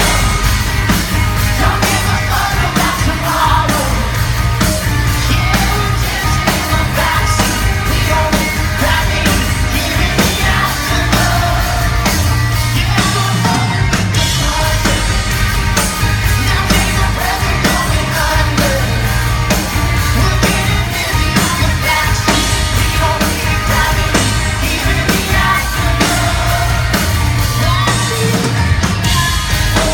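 Loud live pop-rock band performance: a lead vocal sung over drums and guitars with a steady beat.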